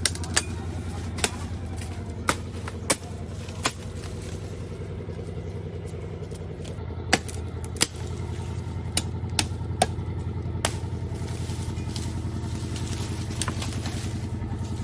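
A small engine running steadily at an even idle, with about a dozen sharp knocks at irregular intervals over it.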